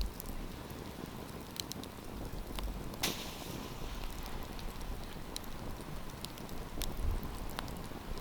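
Wood campfire crackling over a steady hiss of burning, with scattered sharp pops and one louder pop about three seconds in.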